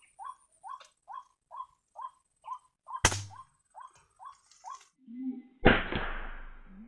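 White-breasted waterhen calls: a fast run of short, rising notes, about three a second, that stops near five seconds in. A sharp crack cuts in about three seconds in. After the run, lower rising notes begin, and at about five and a half seconds a loud, noisy burst fades out slowly.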